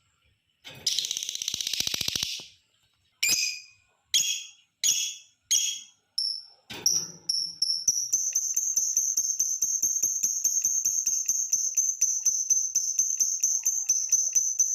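Lovebird calling: a buzzy chatter, then a run of short sharp high calls, then from about seven seconds in a long rapid high trill of about seven notes a second, the long 'ngekek' chatter used as a lure call.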